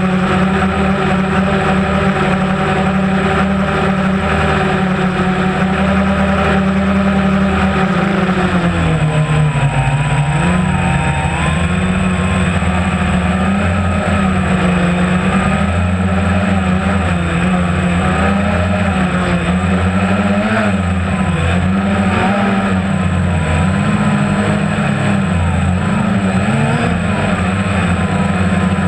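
Inboard motorboat engine running steadily with a low drone. From about nine seconds in, its pitch wavers up and down.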